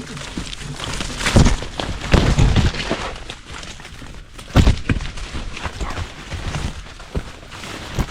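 Footsteps and scrambling over dead wood and branches in the woods, with cracking and a few heavy knocks: one about a second and a half in, a cluster around two to two and a half seconds, and another before the five-second mark.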